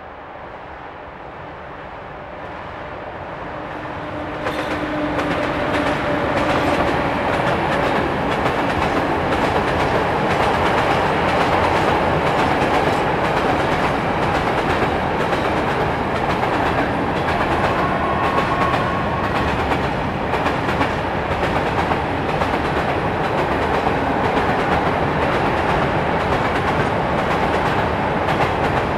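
Freight train hauled by a PKP class ET22 electric locomotive rolling past with a long string of open coal wagons. It grows louder over the first four or five seconds as it draws level, then the wagons run by steadily with a rhythmic clickety-clack of wheels over the rail joints.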